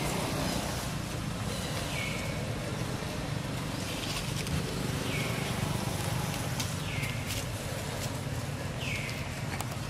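A bird calling, one short call that slides down in pitch and then holds, repeated about every two seconds, over a steady low outdoor rumble.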